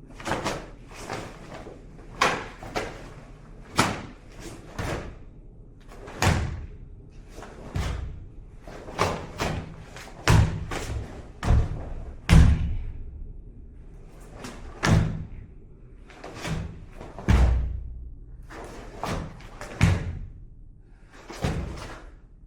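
A series of heavy thumps, about one a second at an uneven pace, some deeper and louder than others.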